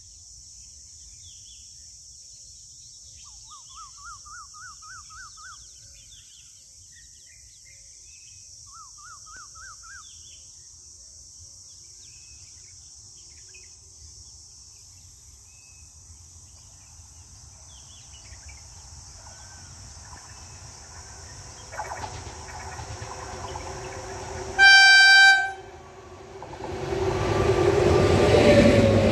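Indian Railways WAG-9 electric locomotive hauling a passenger train: a rising rumble as it approaches, one loud horn blast about a second long some twenty-five seconds in, then the loud rumble and rattle of the locomotive and coaches passing close at speed. Before the train arrives there is only a steady high hiss with birds chirping and trilling over it.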